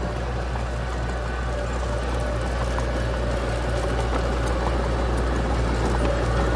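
Heavy diesel engine of earthmoving machinery running steadily, a low drone that slowly grows a little louder.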